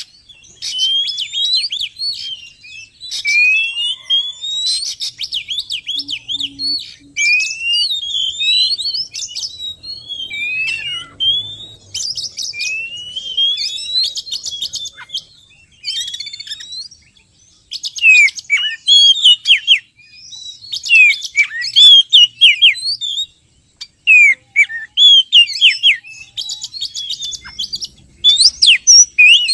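Oriental magpie-robin singing: a series of rising whistled notes repeated every second or so, changing about halfway through to louder, quicker phrases of falling notes.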